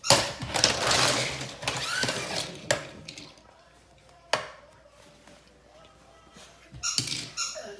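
Noisy voice sounds from a child playing with toys, as at the start and end, with two sharp knocks of hard toys striking each other or the floor in the quiet middle stretch.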